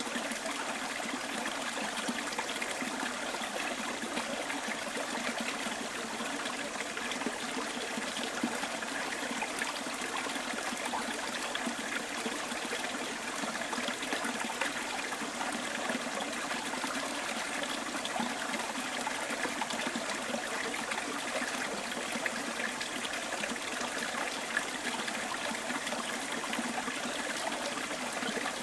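Small bush stream trickling and burbling steadily.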